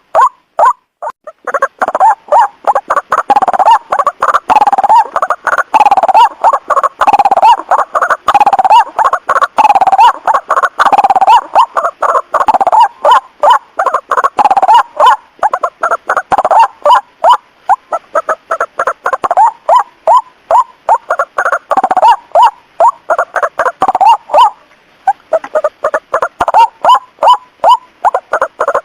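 White-breasted waterhen calls: a rapid, unbroken run of repeated harsh croaking notes, the call used as a lure for waterhens at night. The notes are sparser for the first second or so and again a few seconds before the end.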